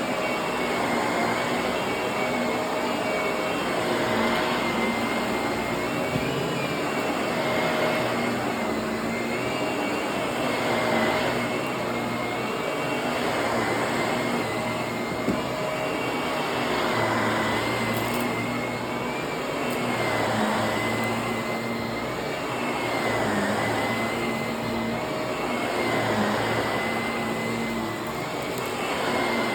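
Vacuum cleaner running steadily on carpet with a constant high motor whine, its sound swelling and easing every few seconds as it is pushed back and forth.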